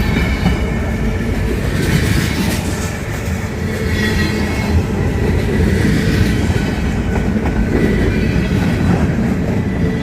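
A CSX freight train's cars rolling steadily past on the rails, a dense low rumble with a thin wheel squeal rising now and then.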